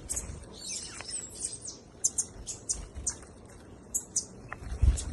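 Birds chirping: short, high notes repeated irregularly, with a falling whistled note about a second in. A low thump near the end.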